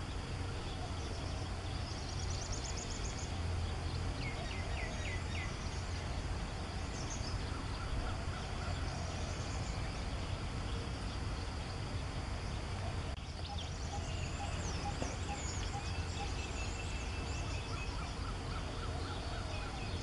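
Several wild birds calling in the background: short rapid trills, a few quick falling notes, and a run of evenly spaced notes about two-thirds of the way through, over a steady low rumble.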